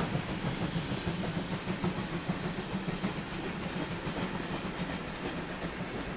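Train's passenger coaches rolling slowly past, steel wheels running on the rails with a steady rumble that slowly gets quieter.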